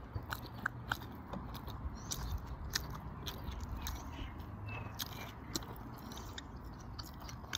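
A person chewing a mouthful of salmon and salad greens with the mouth closed, with irregular sharp mouth clicks and smacks.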